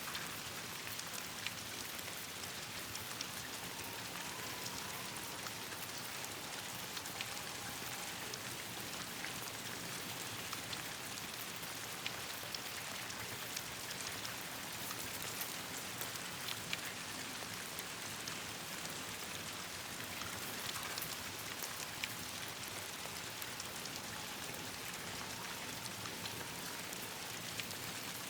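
Steady rain falling on leaves and branches, an even hiss, with scattered sharp pops and ticks from raindrops and a crackling campfire.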